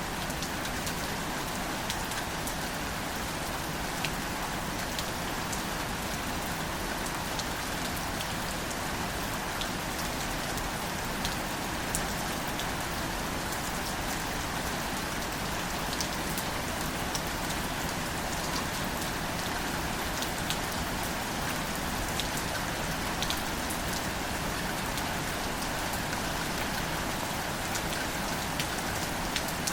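Steady, gentle rain falling on wildflowers and their leaves, with scattered louder single drops ticking through it.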